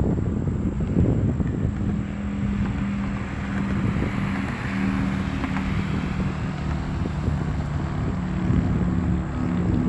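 Airliner engines running at an airport, a steady low rumble with a few held tones that shift in pitch, and wind buffeting the microphone.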